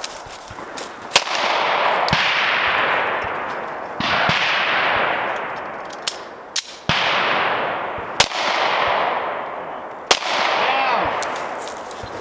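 Springfield Armory XD(M) pistol in .40 S&W firing about eight shots at an uneven, deliberate pace, with three in quick succession near the middle. Several shots are followed by a rush of noise that fades over a second or two.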